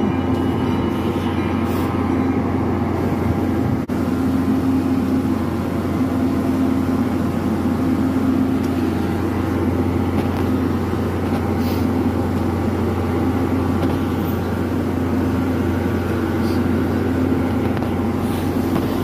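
NJ Transit diesel-hauled passenger train beside the track, giving off a steady mechanical drone with several held tones and no wheel clatter. A brief click about four seconds in.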